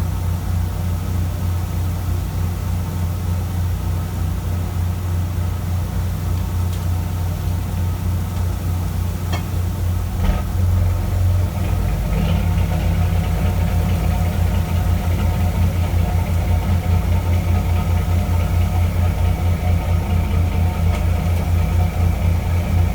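Fishing boat's diesel engine running with a steady low throb. A couple of short knocks come about ten seconds in, after which the throb pulses more strongly.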